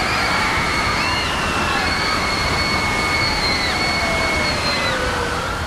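Rushing flood water from the Earthquake: The Big One attraction's staged subway flood, with several emergency sirens wailing over it; the sound cuts off suddenly at the end.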